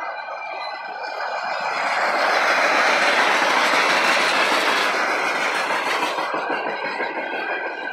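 Refrigerated boxcars of a freight train rolling past on the rails, the wheels clattering, with a swell of rushing noise that builds about two seconds in and eases after about six seconds.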